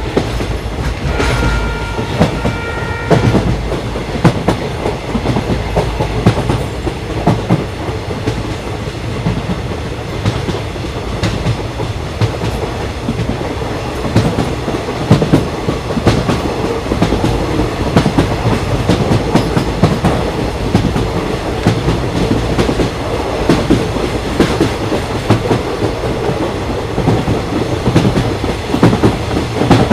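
Indian Railways express train running at speed, with a steady rumble and the clickety-clack of wheels over rail joints. The locomotive's horn sounds just at the start and again for about two seconds soon after.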